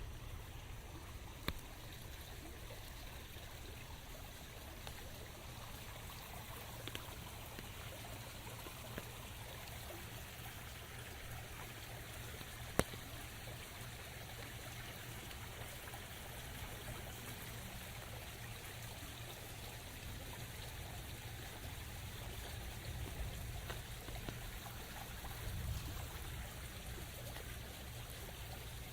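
Steady rain falling, an even hiss of water, with two sharp ticks of drops or taps along the way.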